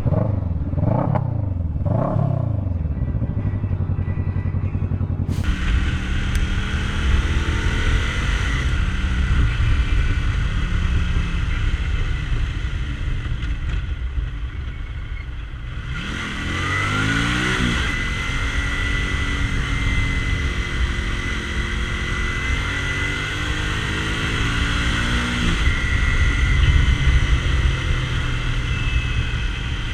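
Motorcycle engine revving up and down as the bike accelerates and shifts gears, over steady road noise. The sound changes abruptly twice, about five and sixteen seconds in.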